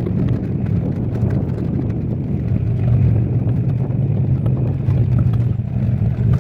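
Motor vehicle engine running steadily, a low hum, with scattered light knocks and rattles.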